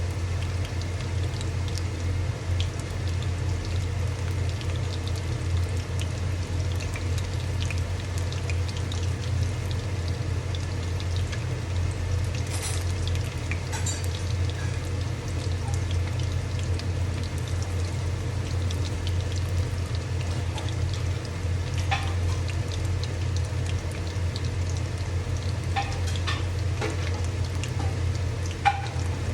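Fish pakoras deep-frying in hot oil, a steady sizzle over a low hum, with a few light clicks scattered through.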